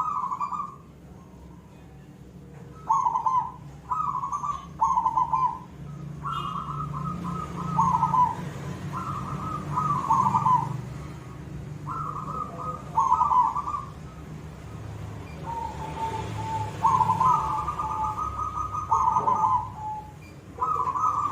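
Zebra dove (perkutut, silver variety) cooing: repeated short phrases of quick, rolling coo notes, a phrase every second or two, some drawn out into a held note at the end.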